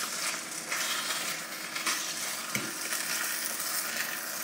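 Chicken pieces sizzling in tomato sauce in an electric skillet, with a utensil scraping and nudging them around the pan. A brief knock about two and a half seconds in.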